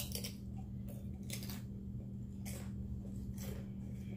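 Close-up eating sounds: crunchy chewing and biting, with a sharp click at the start and a few crunches about a second apart, over a steady low hum.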